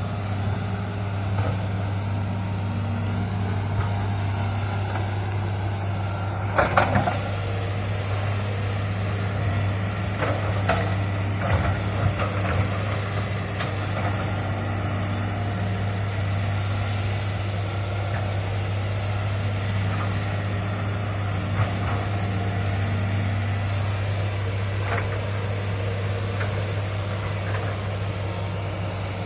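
Hitachi excavator's diesel engine running steadily, with a cluster of sharp cracks and knocks about seven seconds in and a few more scattered later.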